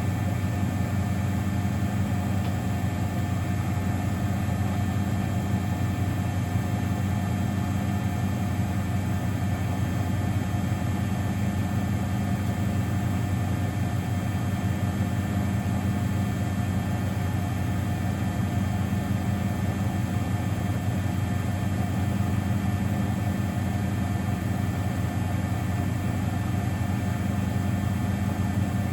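Miele Novotronic W921 washing machine running with a steady motor hum that holds unchanged throughout.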